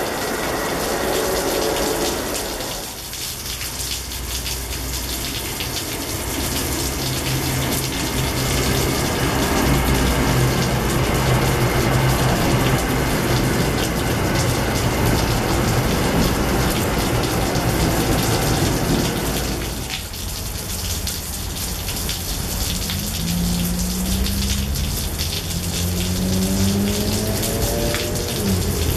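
Steady rain falling on wet pavement and tracks. Through the middle a New Jersey Transit commuter train rumbles past at speed, then fades. Near the end come a few short rising tones.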